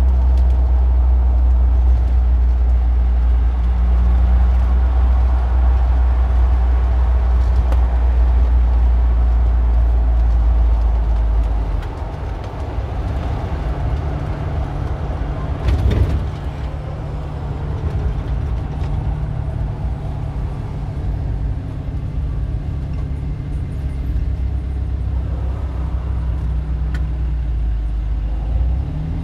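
Car engine running steadily with a deep low rumble that drops away about twelve seconds in, leaving a lighter, steady engine hum. A single brief knock about sixteen seconds in.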